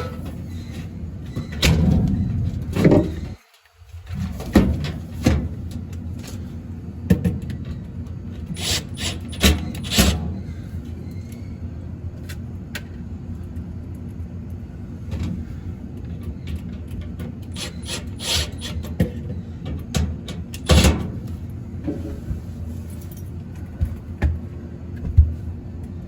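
Hand reassembly of a refrigerated prep table's panel: scattered clicks, knocks and rubbing of metal parts and screws being handled and fitted, over a steady low hum. The sound cuts out briefly about three and a half seconds in.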